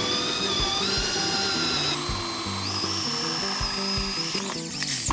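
Electric power tool, most likely a drill, running at high speed with a steady whine that steps up in pitch twice, then winding down near the end, over background music.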